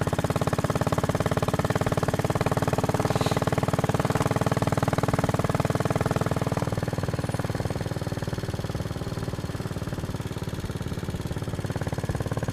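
Royal Enfield Bullet Machismo 500's single-cylinder four-stroke engine running under way, an even, rapid beat of exhaust pulses. It eases off slightly about six and a half seconds in.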